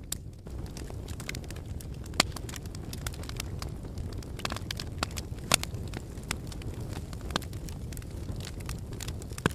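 Wood fire burning in a fireplace: a steady low rumble of flames with irregular crackling and sharp pops, the loudest pops about two seconds and five and a half seconds in.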